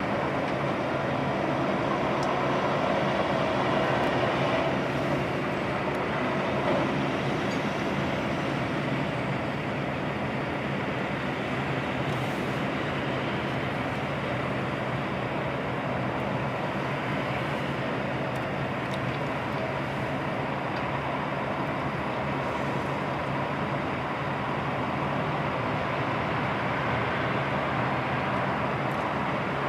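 Heavy truck engine running steadily, a low continuous drone, a little louder over the first few seconds.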